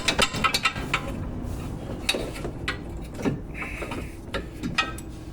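Metal hand tools and car suspension parts clinking and knocking as they are handled during work on a front suspension, with a cluster of quick clicks at the start and a brief high squeak a little after the middle.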